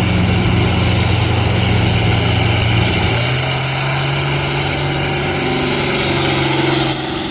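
A pulling tractor's engine running loud and steady; its note shifts slightly about three seconds in, with a high whine above it.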